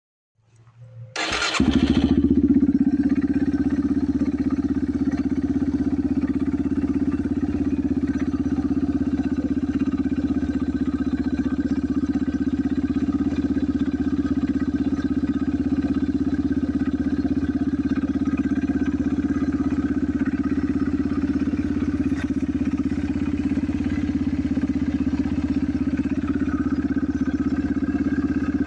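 Small dirt bike engine starting about a second in with a brief rasp, then running steadily at an even engine speed.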